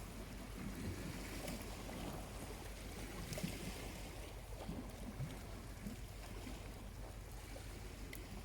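Small waves lapping gently at the shore, a steady soft wash with little splashes, with a few faint crackles from a charcoal campfire.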